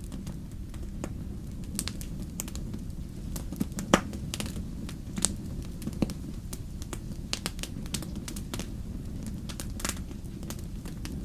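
Wood campfire burning with a steady low rush and irregular crackles and sharp pops, the loudest pop about four seconds in.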